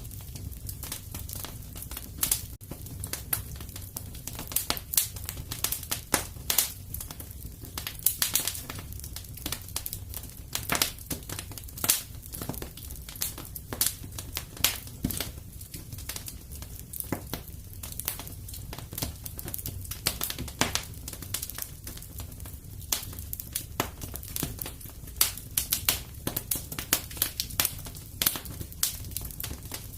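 Wood fire crackling in a fireplace: many irregular sharp pops and snaps over a low, steady noise from the flames.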